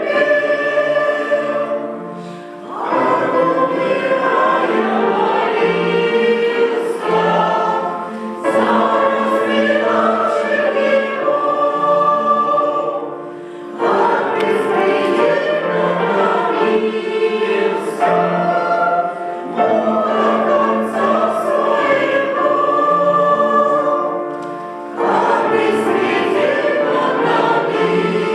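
Church choir singing a hymn in phrases, with short breaks between them about every five to six seconds.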